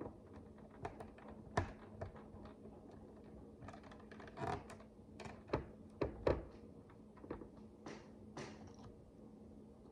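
Micro bricks (miniature plastic building bricks) being handled and pressed together: irregular small clicks and taps, a few louder snaps about 1.5 s in and twice around 6 s in, over a faint steady low hum.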